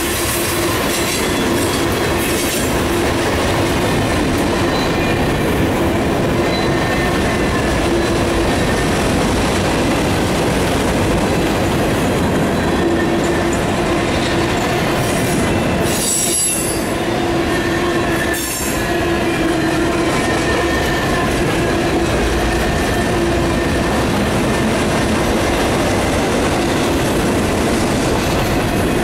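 Freight cars of a mixed freight train rolling past: a steady loud rumble of steel wheels on rail, with wheel squeal tones coming and going.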